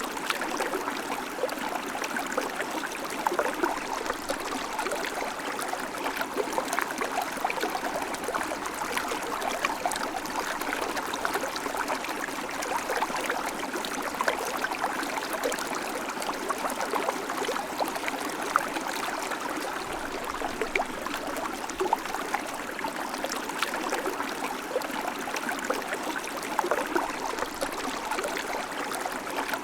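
River water flowing steadily over stones, a constant babbling and splashing with many small bright gurgles.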